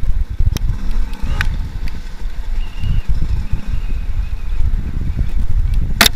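Enduro motorcycle engine running with the throttle rising and falling as the bike rides along a rough trail. The sound is heard from a camera on the rider. A sharp knock comes about six seconds in, with fainter clicks earlier.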